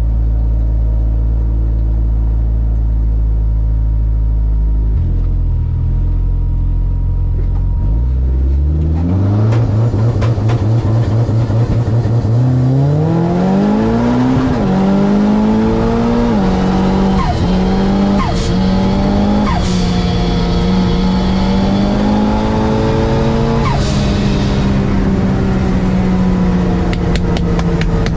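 Drag car engine running steadily low, stepping up, then accelerating hard with the pitch rising through the gears. Several upshifts drop the pitch before it holds high and steady near the end.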